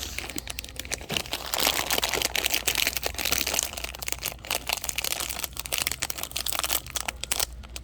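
Plastic snack package crinkling and rustling as it is handled, a dense run of small crackles that stops abruptly near the end.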